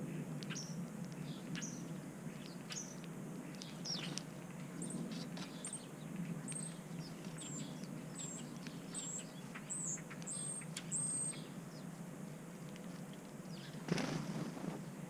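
Small backyard birds chirping, with a run of quick, high repeated notes in the middle, over a steady low hum. A sharp knock comes near the end.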